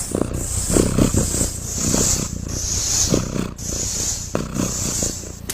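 A cat making a low, rough rumbling sound in repeated pulses close to the microphone.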